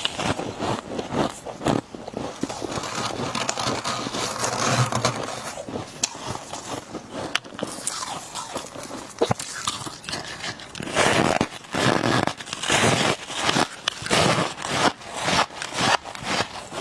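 Close-miked biting and chewing of powdery freezer frost: dense crisp crackling and crunching, which turns into louder, rhythmic crunches about two-thirds of the way through.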